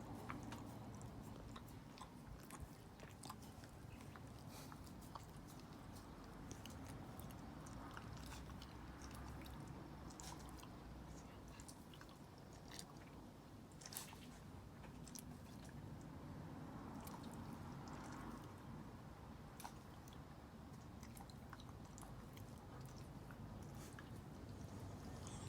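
A Shiba Inu lapping up corn soup: faint, irregular wet clicks of the tongue and mouth.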